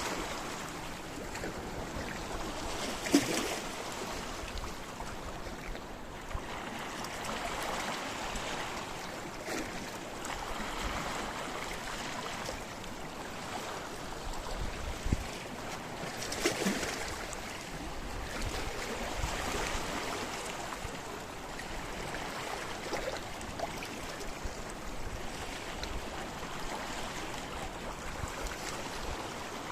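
Sea waves washing over and against rocks, a steady wash broken by a few louder splashes, the strongest about three seconds in and again around sixteen seconds in.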